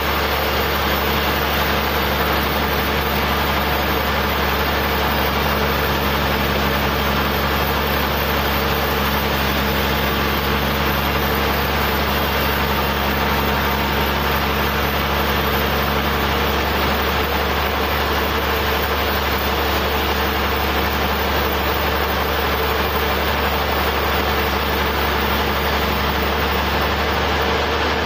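Portable sawmill's engine running steadily with a constant low hum. About two-thirds of the way through, part of the low hum drops away while the running continues.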